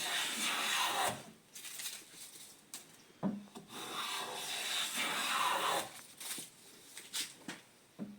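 Acorn No. 5 jack plane shaving a wooden board: one long rasping stroke ends about a second in, then a knock as the plane meets the wood and a second stroke of about two and a half seconds, followed by a few light clicks near the end.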